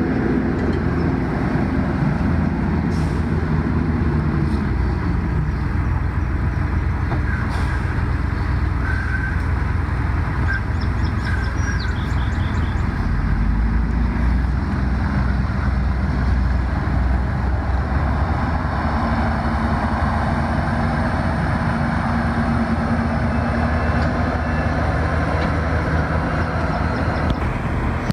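Heavy engine running steadily, a continuous low drone with rumble that shifts slightly in pitch over time.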